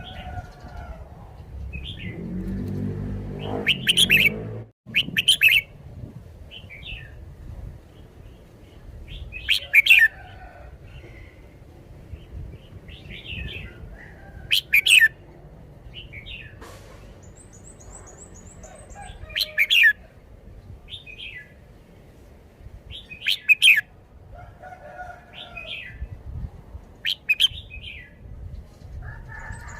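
Red-whiskered bulbul singing: short, loud, warbling phrases about every four to five seconds, with softer chirps between them.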